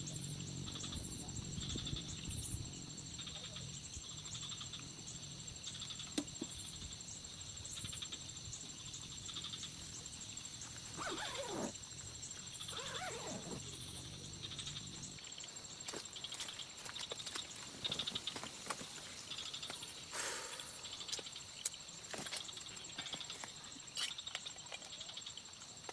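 Insects chirring steadily at several high pitches, with scattered clicks. A low rumble stops about 15 seconds in, and two short calls fall in pitch around the middle.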